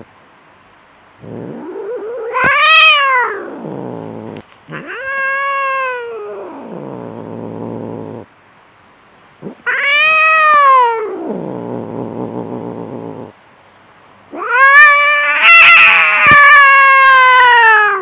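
Cats caterwauling in a fight: four long, drawn-out yowls, each rising and then falling in pitch, with short gaps between. The last yowl, starting near the end, is the loudest, with sharp crackles in its middle.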